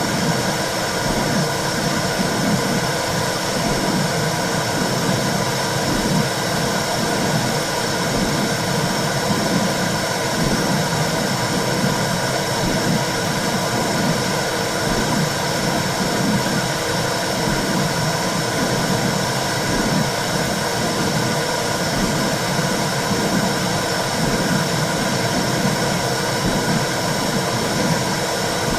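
Womb sound played to calm a baby: a steady hiss and low rumble with a whooshing pulse that repeats in the low end, like blood flow and heartbeat heard from inside the womb.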